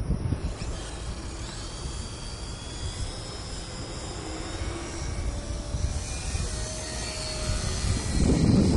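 Electric RC Pitts S2A biplane in flight, its brushless motor and propeller giving a thin high whine that rises and falls in pitch. Wind buffets the microphone with a low rumble that grows louder near the end.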